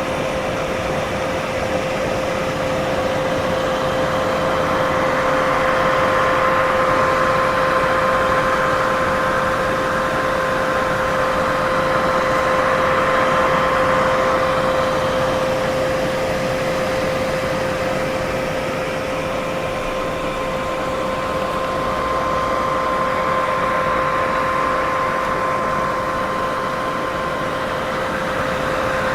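Steady white noise: a continuous even hiss with two faint steady hums beneath it, one pitched an octave above the other. The noise swells and eases slowly, about every ten seconds.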